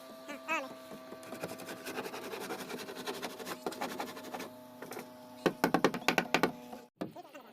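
A small electric power tool's motor spins up about half a second in, runs steadily with a rattling whirr, and cuts off suddenly near the end. A quick run of loud sharp knocks comes about two-thirds of the way through.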